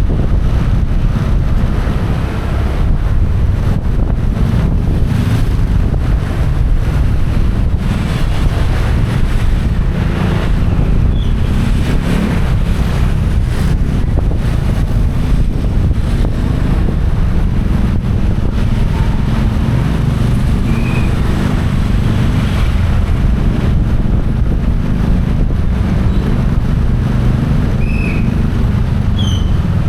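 Wind buffeting the microphone on a moving motorcycle, with the bike's engine and road noise underneath, steady throughout.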